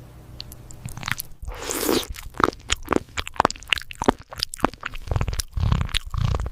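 A cat chewing and crunching food close to the microphone: a quick, irregular run of sharp crunches and bites, with a short rustling swish about two seconds in.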